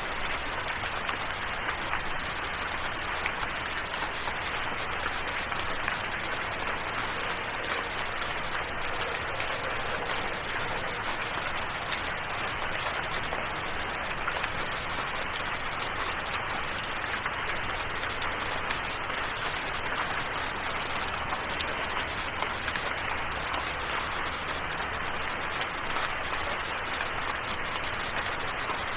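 Steady rain falling: an even hiss made of many small drop ticks that does not let up.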